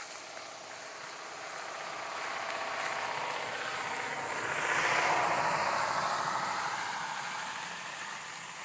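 A motor vehicle passing by: its engine and tyre noise swell, are loudest about five seconds in, then fade away.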